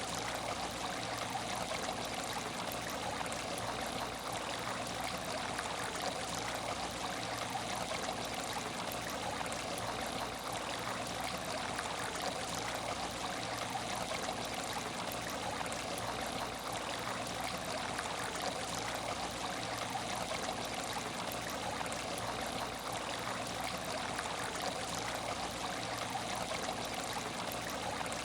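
Aquarium tank water trickling and splashing steadily, an even flowing-water wash with no breaks or changes.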